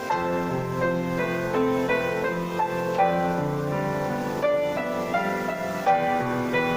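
Piano music: a melody of many short notes over sustained chords, played steadily with no pauses.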